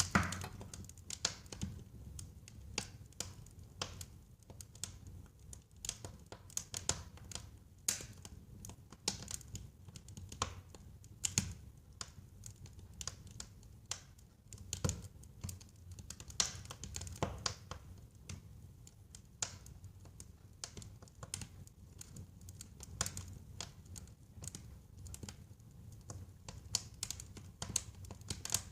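Wood fire burning in a fireplace: irregular sharp crackles and pops over a low, steady rumble of flames.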